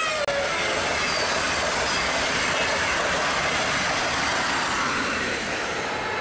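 A high-speed electric train passing at speed: a loud, steady rush of air and wheels on rail, with a short falling whine at the start as it goes by.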